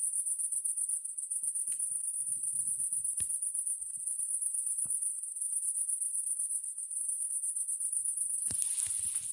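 Crickets chirping in a steady, high, continuous trill, with a few sharp crackles from a wood bonfire. Rustling starts near the end.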